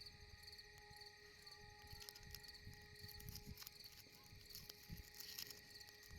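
Faint crickets chirping, a high pulsing chirp repeating about twice a second over a steady thin insect drone, with soft irregular low rumbles underneath.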